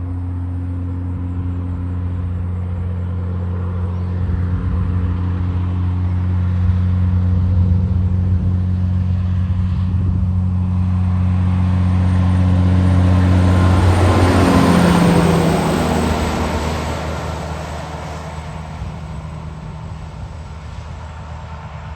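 A heavy truck approaching and passing: a steady engine drone that builds, then a rush of tyre noise as it goes by about fourteen seconds in, with the engine note dropping in pitch as it passes and fading away.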